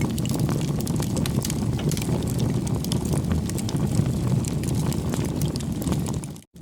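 Bonfire burning, its wood crackling and snapping in quick irregular pops over a steady low rumble of flame and wind. The sound cuts out for a moment near the end.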